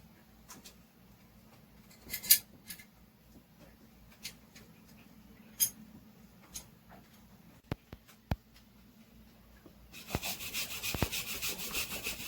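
Scattered light clicks and knocks of hand work, then about ten seconds in a fast, steady back-and-forth scraping starts, several rubbing strokes a second on a hard surface.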